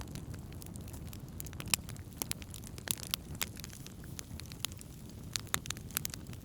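Wood campfire burning, with irregular sharp crackles and pops over a low steady rumble. One pop less than two seconds in is louder than the rest.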